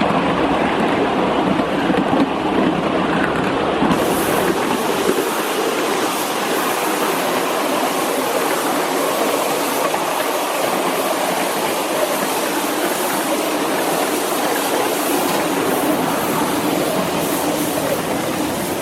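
5-inch gauge live-steam model of the Duchess of Hamilton locomotive running on its track: a steady, noisy rush of steam and wheels on rail.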